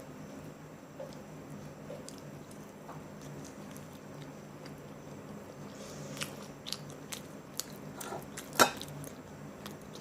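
Close-up mouth sounds of someone eating spicy chicken: quiet chewing, then a run of crisp, wet bites and crunches in the second half, the loudest a sharp crunch near the end. A steady low hum runs underneath.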